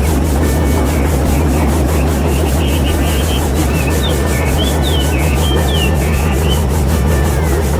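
Small motor-driven machine running steadily with a constant hum and a rough rasping grind. Short high chirps of birds come and go over it in the middle.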